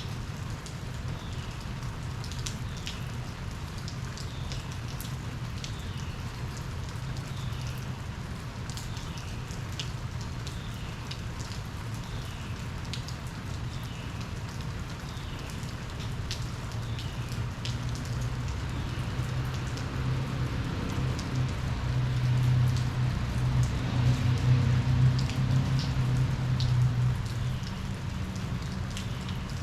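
Steady rain falling, with individual drops tapping. A low rumble grows louder about two-thirds of the way through, then eases near the end.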